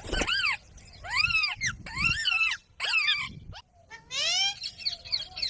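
Parrot calling: a run of about six calls in five seconds, each rising then falling in pitch, with short gaps between them.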